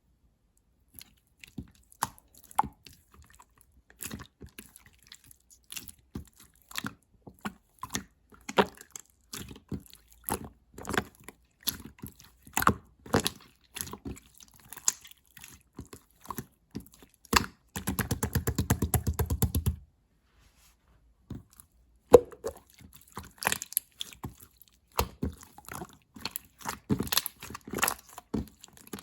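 Blue slime being squeezed and pressed by hand, giving crisp irregular crackles, pops and clicks of air bubbles bursting. Past the middle a fast, even run of clicks lasts about two seconds, then it stops briefly before the crackling picks up again.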